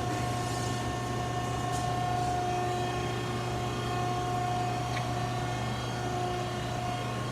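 Wysong metal shear's drive motor running steadily at idle between cuts, a constant hum with a few held tones and no cutting stroke.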